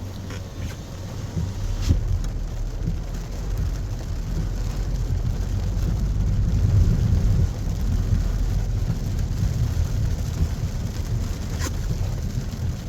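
Heavy rain with a steady low vehicle rumble underneath, swelling a little around the middle, and a couple of sharp taps.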